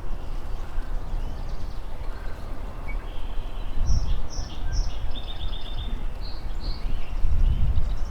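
Wind buffeting the microphone in a steady low rumble, with a bird chirping in short repeated series from about three seconds in until near the end.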